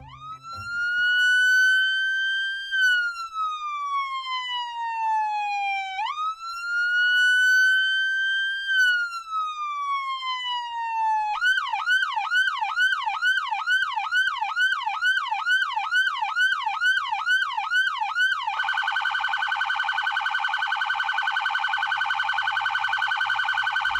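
Police car's electronic siren: two slow wails rising and falling, then a quick yelp at about two to three rises a second, then a very rapid piercing warble in the last few seconds.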